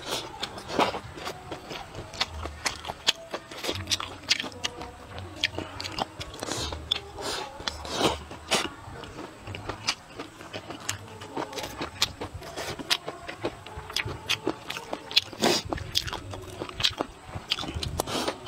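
A person eating mouthfuls of rice and stir-fried dishes with chopsticks, close to a clip-on microphone: smacking chews with many irregular sharp clicks.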